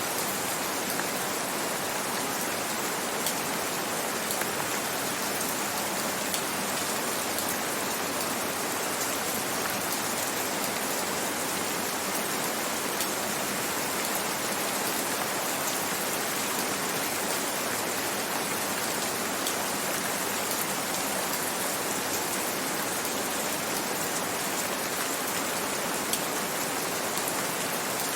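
Steady rain falling, a continuous even hiss with a few faint drop clicks.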